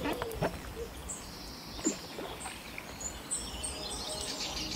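Small birds chirping in short, high, repeated calls, with a few soft knocks as a fly rod and line are handled.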